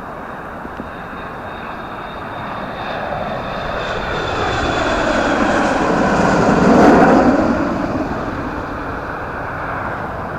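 Jet airliner on landing approach passing low overhead, loud: its engine noise builds to a peak about seven seconds in and then fades, with a high whine that slowly falls in pitch as it approaches.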